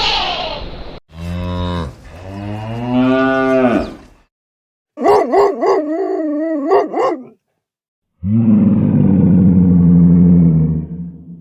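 Cattle mooing in a series of separate calls: a low call that rises and falls about a second in, a higher call with a quick wavering pitch in the middle, and a long, steady, low moo near the end.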